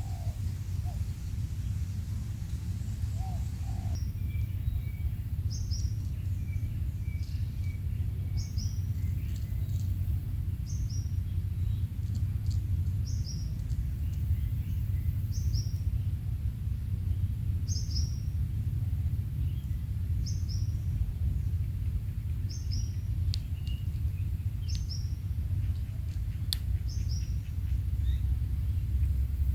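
Quail chirping: short high chirps repeating every second or two, after a few low soft calls in the first few seconds, all over a steady low rumble. A single sharp click near the end.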